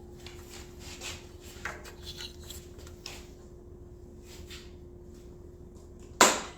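Light rustling and small clicks from hands working the motorcycle's switches while checking its lights, with one sharp, loud click about six seconds in, over a steady low hum.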